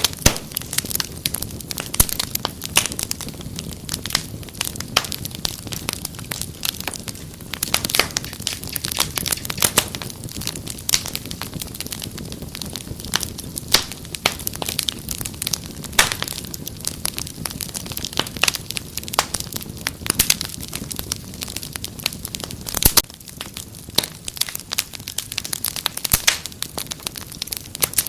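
Wood fire crackling, with many irregular sharp pops and snaps over a low, steady rumble of flames.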